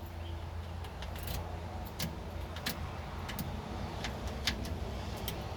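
Keys and small metal parts clicking and jangling, about six light sharp clicks spread over the second half, over a steady low hum.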